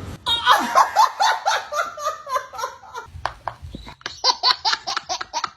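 Baby laughing in a long run of quick bursts, about five a second. There is a short break about three seconds in, and the laughter then carries on higher-pitched.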